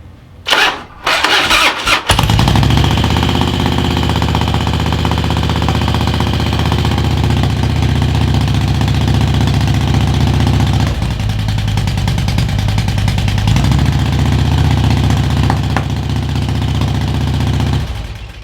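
Harley-Davidson Street Glide V-twin engine cranked by the starter, catching after about two seconds and running steadily, with a change in engine speed midway, then shut off near the end. It runs a little ticky and rough, which the owner puts down to the bike having sat for a long time, perhaps a lifter sticking.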